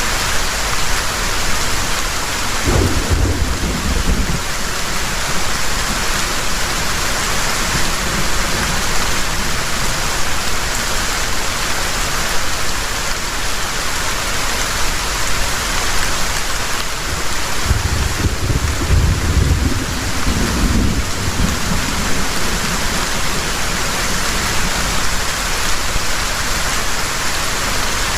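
Heavy rain falling steadily, with two low rolls of thunder: a short one about three seconds in and a longer one about two-thirds of the way through.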